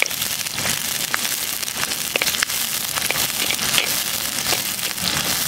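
Small onions, garlic and green chillies sizzling and crackling in hot oil in an earthen clay pot, with irregular sharp pops throughout, while a metal perforated ladle stirs and scrapes them.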